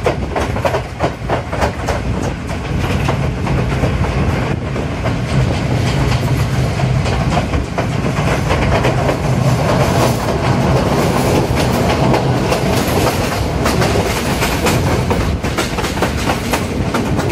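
Passenger train running along the track, heard from an open carriage window: a steady rumble with the wheels clicking and clacking over the rail joints.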